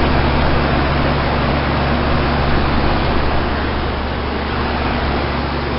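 Outdoor unit of a 2000 Lennox Elite series heat pump running in heat mode: a steady rush of air from the condenser fan over a low compressor hum.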